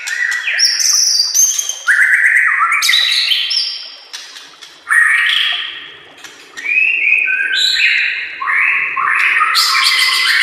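White-rumped shama (murai batu) singing a rich, varied song of loud whistled notes and fast trills, delivered in bursts. The song eases off briefly twice.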